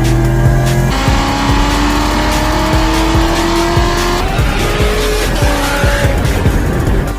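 A car engine accelerating hard, its pitch rising steadily for a few seconds and then dropping and climbing again in shorter steps at the gear shifts. Background music with a steady beat plays under it.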